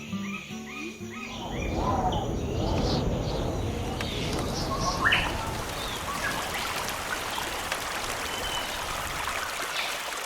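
Birds chirping over a steady rushing noise that comes in about a second and a half in.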